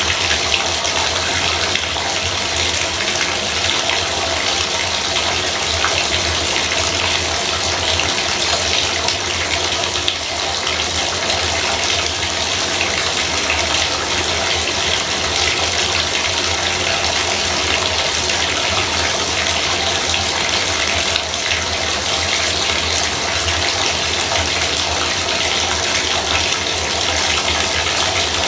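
Bathtub faucet running, a steady stream of water pouring into the tub, with a low hum underneath.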